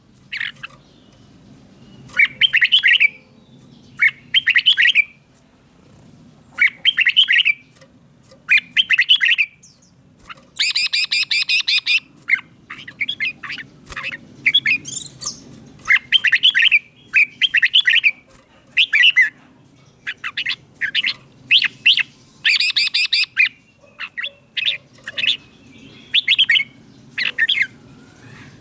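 Red-whiskered bulbul singing: short, bright whistled phrases repeated about every two seconds, with two longer, harsher chattering runs about ten and twenty-two seconds in.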